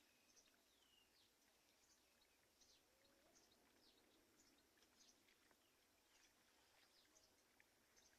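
Very faint birdsong: many short, high chirps and a few falling whistles from several birds, over a steady low hiss.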